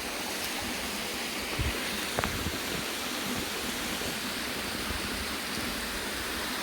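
Waterfall's steady rush of falling water, with a couple of soft knocks about two seconds in.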